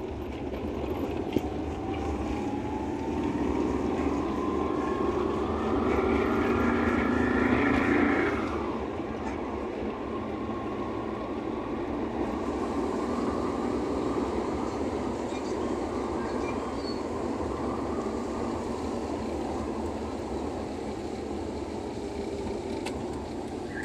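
A car driving on a wet, water-covered road: steady tyre and road noise heard from inside the car. A whine rises slowly in pitch over the first eight seconds as the car speeds up, then the noise levels off.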